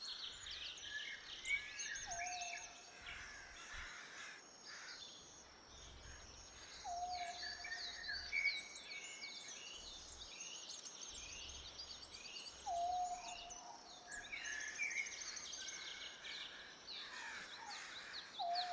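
A chorus of birds chirping and trilling, with one lower whistled note, a quick upslur then a held tone, repeating about every five to six seconds.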